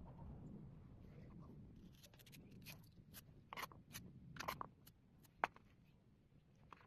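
Faint scrapes and clicks from something being handled, bunched between about two and five seconds in, with one sharper click about five and a half seconds in.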